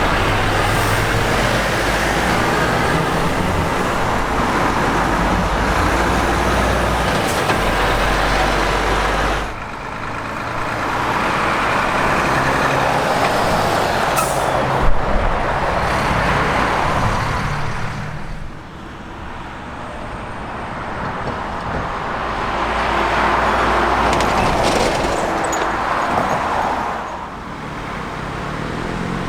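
Heavy trucks passing by one after another, their diesel engines and tyres rising and fading in three passes. There is a brief sharp knock partway through.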